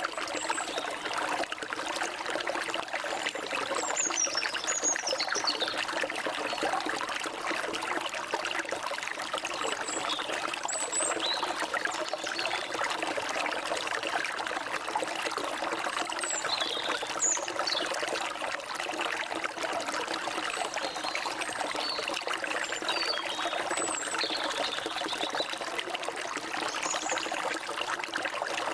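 Flowing stream water running and trickling steadily, with short high bird chirps and whistles scattered over it.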